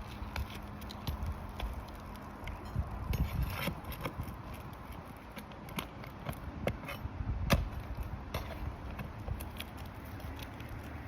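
Irregular clicks, scrapes and knocks of hand work on a roof: asphalt shingles being loosened and their nails pried out, with the loudest knock about seven and a half seconds in, over a low rumble.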